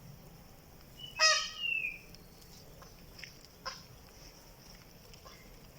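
Peacock (Indian peafowl) giving one loud harsh call about a second in, in two quick pulses with a gliding tail, then a few faint short sounds. It is the unusual call the bird keeps repeating.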